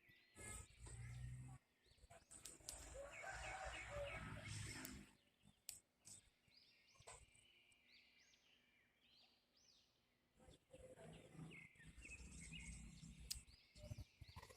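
Faint outdoor ambience of birds chirping in short, repeated calls, with soft low knocks and rustles of handling.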